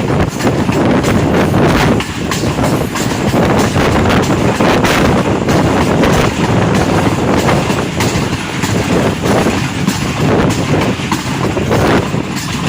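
Passenger express train running along the track, heard from on board: a steady loud clatter of the coaches with repeated clicks and knocks from the wheels and rails.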